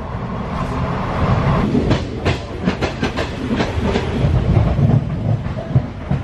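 Indian Railways passenger coach running, heard from inside the carriage: a steady low rumble, with a run of sharp clicks of wheels over rail joints between about two and four seconds in.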